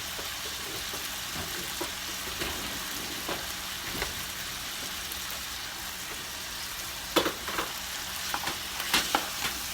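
Food sizzling steadily in a hot frying pan on the stove, with a few sharp clicks about seven and nine seconds in.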